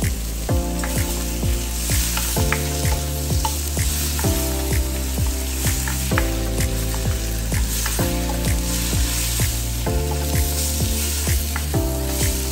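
Raw chicken pieces sizzling in a hot wok with chopped onion as a spatula stirs them, under background music with a steady beat.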